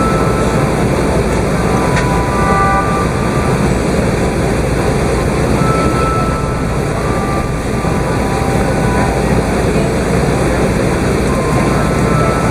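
Steady cabin noise inside an Airbus A380's upper deck, a constant low rumble and rush of engines and air conditioning heard from a passenger seat during the taxi to the gate.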